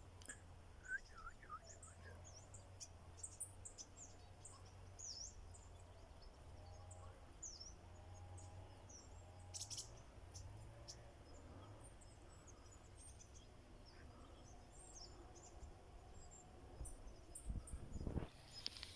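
Small songbirds calling faintly with many short, high, thin chirps, over a low steady rumble. A brief thump or crunch sounds near the end.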